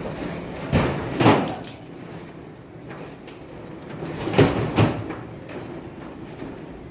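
Two pairs of knocks, one pair about a second in and another about four and a half seconds in, over a steady low background.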